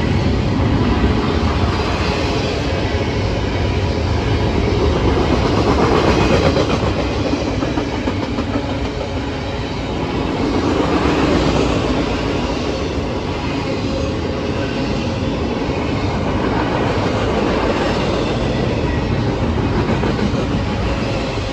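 A train's railroad cars rolling past, a steady loud rumble of wheels on the rails that swells a little now and then.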